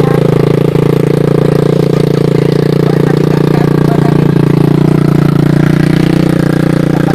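Small motorcycle engine running steadily close by, a loud drone that eases a little lower in pitch about halfway through.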